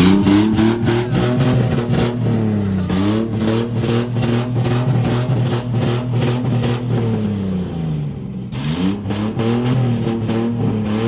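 Car engine with an aggressive performance camshaft idling with a choppy, pulsing lope. The revs sag and climb back twice.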